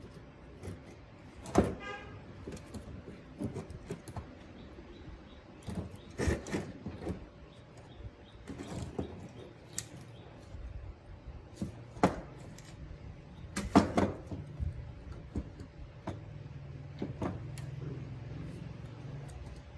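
Irregular clicks and knocks of small parts and hand tools being handled on a workbench, with a few louder knocks, and a faint low hum for the last few seconds.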